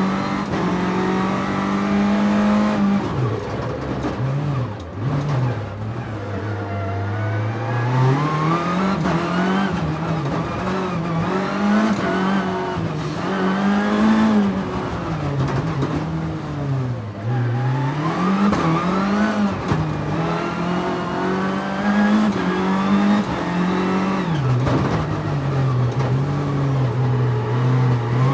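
Nissan 300ZX's V6 engine under hard driving on a twisting road: the revs climb and drop again and again every few seconds as the car accelerates out of bends and lifts or shifts going into them, with road and wind noise close to the low-mounted camera.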